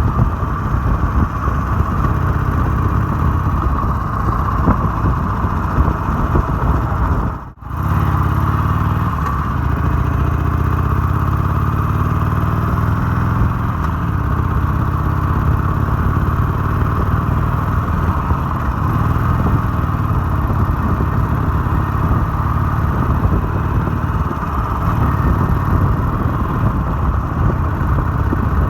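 Harley-Davidson 883's V-twin engine running steadily on the move. It cuts out for a split second about seven seconds in, then its pitch rises over the next few seconds as it accelerates.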